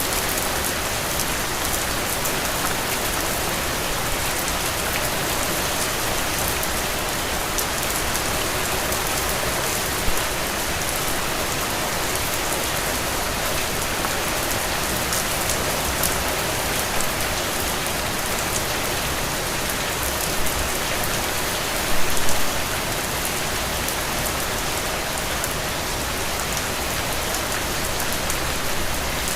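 Steady rain falling on a surface, with scattered louder drop impacts and a brief cluster of louder hits about three quarters of the way through.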